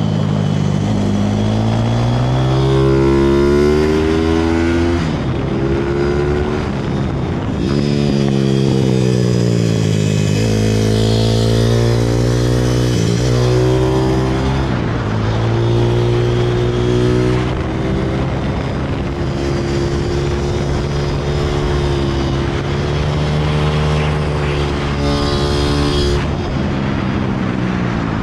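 160cc pit bike's single-cylinder four-stroke engine riding laps, its pitch climbing on each run of throttle and dropping off again, several times over.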